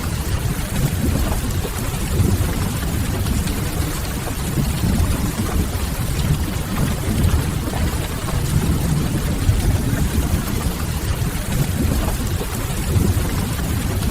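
Steady rain ambience with a deep low rumble underneath, mixed with the faint crackle of a wood fire.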